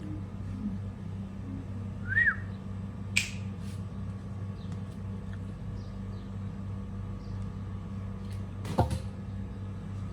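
A pet parrot gives one short chirp that rises and falls, about two seconds in. A sharp click follows a second later, and a louder knock comes near the end, over a steady low hum.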